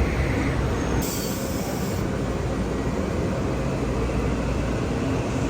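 A train passing at speed, its steady rumble running on; a high wheel squeal fades out within the first half second.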